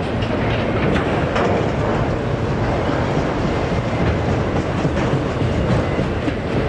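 Freight train cars rolling past at steady speed, wheels clicking over the rail joints.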